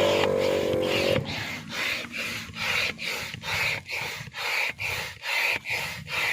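Hand air pump worked in quick strokes, about two to three rasping pushes of air a second, over a faint steady low hum. A loud pitched sound at the start cuts off about a second in.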